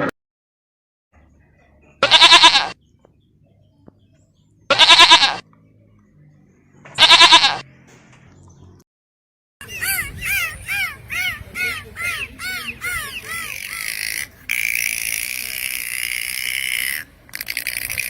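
Three loud, bleat-like animal calls about two and a half seconds apart. They are followed by a fast run of short, high, arching chirps over a steady high hiss.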